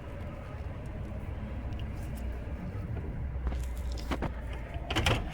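Pickup truck engine running with a steady low rumble, with a few sharp knocks and rattles near the end.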